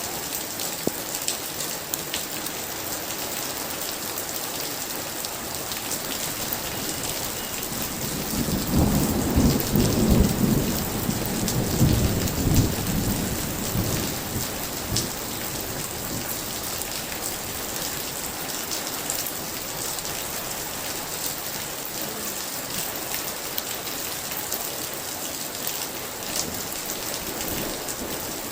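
Heavy rain falling steadily, with one long roll of thunder that swells about a third of the way in, cracks loudest at its peak and rumbles away over several seconds.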